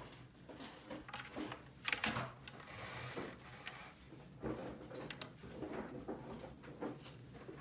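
Small plastic toy pieces being handled: a string of light clicks and knocks, with a longer rustle around two to four seconds in.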